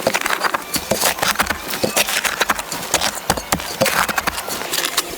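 Rapid, irregular knocking and tapping of hard objects: many short sharp knocks close together.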